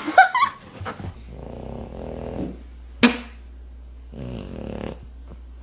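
A dog making two long, low sounds, the first about a second and a half long and the second about a second, with a single sharp click between them.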